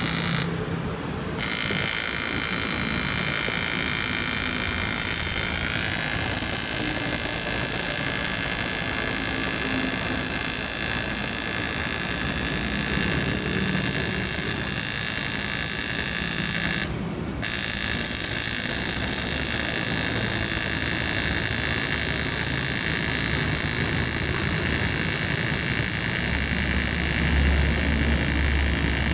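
TIG welding arc from a Daihen Elecon AC/DC 300P welder: a steady, loud buzzing hiss with a faint high whine. The hiss breaks off briefly twice, once near the start and once about two-thirds of the way through, then picks up again.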